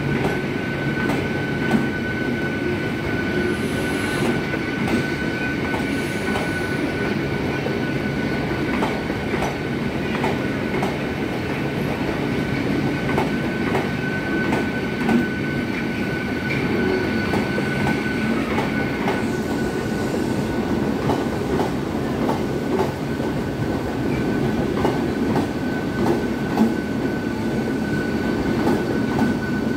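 A Mumbai Western Railway suburban electric train running slowly along the track below, with wheels clicking over the rail joints and a steady high whine.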